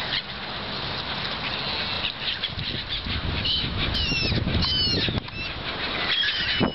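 Strong wind gusting and buffeting the microphone, with a low rumble that builds about halfway through. A few short high chirps come through over the wind midway and again near the end.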